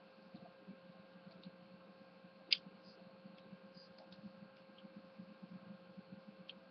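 Faint room tone with a steady electrical hum and scattered small clicks and ticks, one sharp click about two and a half seconds in.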